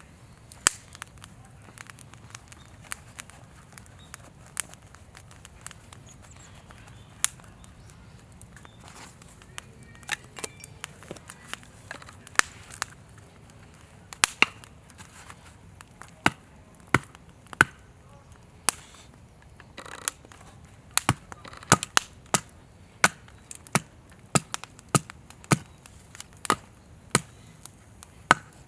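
Wood campfire crackling, with sharp irregular pops and snaps from the burning firewood that come thicker in the second half.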